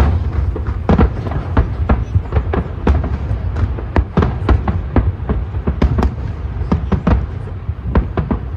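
Fireworks display: aerial shells bursting in rapid succession, several sharp bangs a second over a continuous low rumble.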